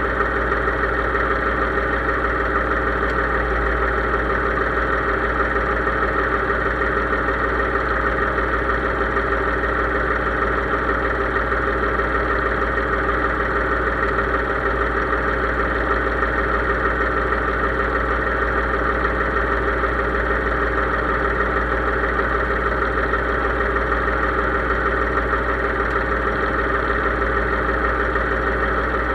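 Case IH 3220 tractor's diesel engine running steadily.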